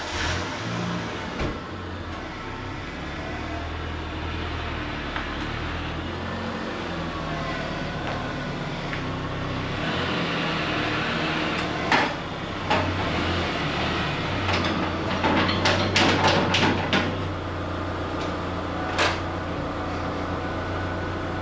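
Truck engine running at low speed while the truck is manoeuvred. A run of clunks and rattles comes about halfway through, with one more knock near the end.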